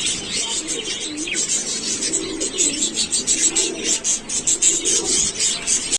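A flock of birds chirping continuously and densely, with low cooing notes underneath.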